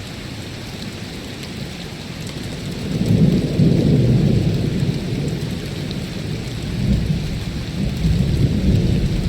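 Steady rain with low rolling rumbles of thunder that swell about three seconds in and again near the end.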